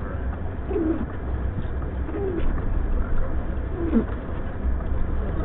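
Blizzard wind buffeting the car as a steady low rumble, with three short, falling hooting tones about a second and a half apart.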